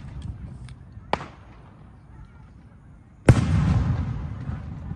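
Aerial fireworks shells bursting: a sharp bang about a second in, then a loud burst about three seconds in whose crackling, rumbling tail slowly dies away.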